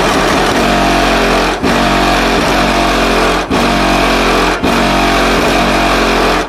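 Loud bass-heavy music played through a car's aftermarket sound system: two Bravox Endurance 2K subwoofers driven by a Soundigital 3000 W RMS amplifier. A constant deep bass note runs underneath a dense, loud wash of sound, broken by three short gaps.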